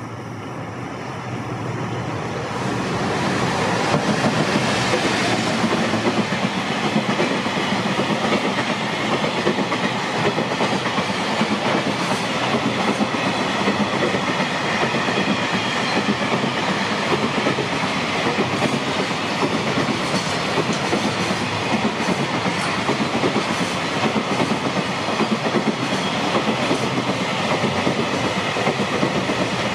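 Freight train hauled by an EF210 electric locomotive passing close by: it grows louder over the first few seconds as the locomotive arrives, then the container wagons roll past with a steady loud rolling noise and occasional wheel clacks.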